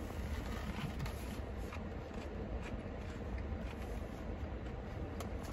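A person chewing a mouthful of crisp lettuce salad, with faint scattered crunches, over a steady low rumble.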